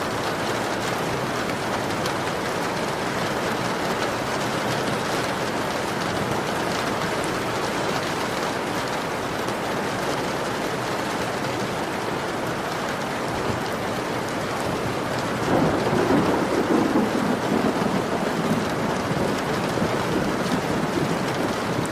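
Heavy rain falling steadily on a window, a dense even hiss. About two-thirds of the way through, a low rumble of thunder swells up for a few seconds and fades back under the rain.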